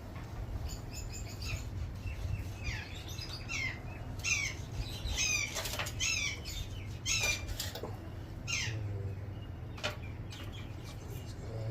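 Parrots calling in runs of short, repeated chirps that bend in pitch, thickest through the middle stretch and thinning near the end, with a few sharp knocks among them.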